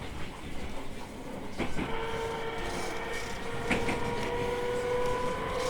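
Interior running sound of an E217 series electric train. About two seconds in, a motor whine comes in and creeps slowly upward in pitch as the train gathers speed, and there are a couple of rail-joint clacks.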